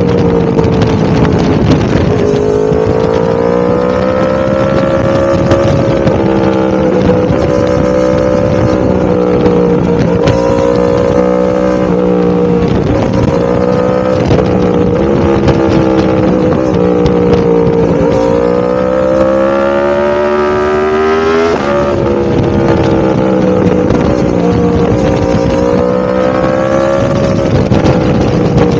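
Yamaha R1-M's crossplane inline-four engine running continuously, its pitch rising and falling gently with the throttle. About three-quarters of the way through, it climbs steadily for a few seconds, then drops sharply, as at an upshift.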